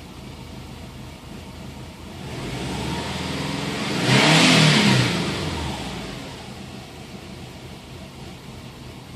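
2005 Subaru WRX turbocharged flat-four engine idling, revved once about two seconds in, peaking around four to five seconds, then dropping back to idle, where it misfires as it settles. The owner cannot find the cause: plugs, coils, MAF and inlet pipe are new, all vacuum lines are connected and the ECU is new.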